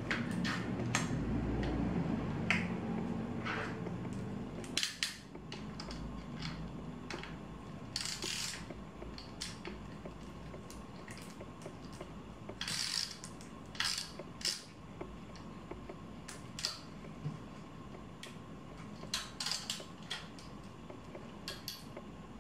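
Scattered clicks, taps and short scraping rustles of hand tools and small bike parts while a Shimano MT201 brake set is fitted to a folding bike's handlebar. A low hum runs under the first few seconds, then stops.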